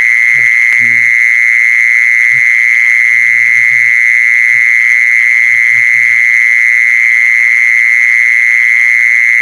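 A continuous shrill, high-pitched trill, steady in pitch and level, played as a lure call for the female khmol. Short faint low calls come and go beneath it.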